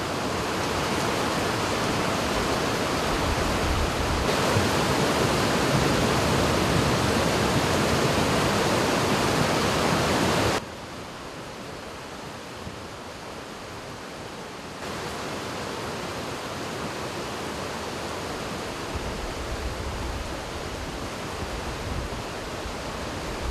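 Steady rushing noise of a flood-swollen river and heavy rain. It is louder for the first ten seconds or so, drops suddenly about 10 seconds in, and rises a little again about 15 seconds in.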